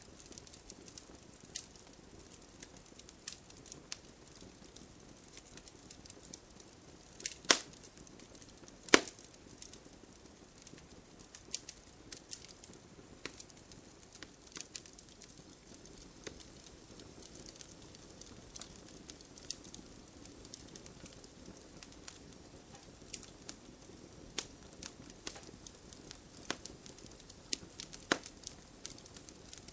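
Wood fire crackling, with scattered sharp pops, the loudest two about seven and a half and nine seconds in, over a soft steady hiss of light rain.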